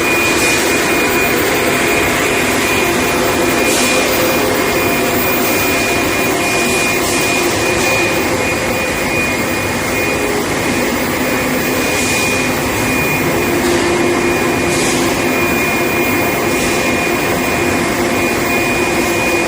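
Steady running noise of an induction heat-treatment line for steel bar, with a constant high-pitched whine over a dense machine hum and a few brief hisses.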